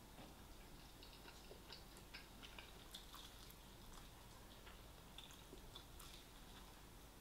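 Faint, irregular small clicks and mouth noises of someone chewing fried chicken, close to near silence.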